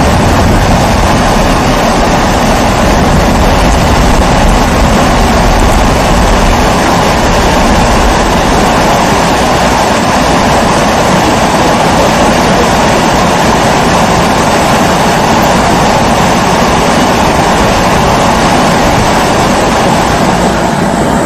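Pressurised kerosene stove (babour) burning with a loud, steady rushing hiss.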